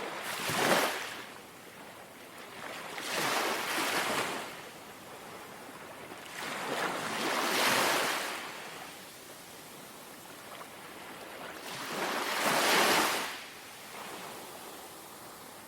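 Small, gentle sea waves breaking and washing on the shore, four swells about four seconds apart with a soft wash between.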